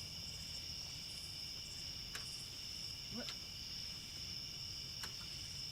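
Night insect chorus, crickets among them, with a steady high-pitched drone and a few faint clicks; no siren sounds.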